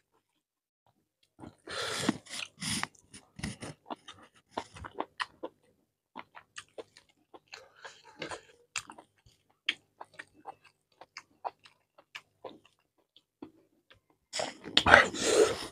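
Close-miked eating: wet clicks and smacks of chewing chicken curry and rice, with fingers kneading curry-soaked rice on a plate. A louder, noisier burst comes near the end.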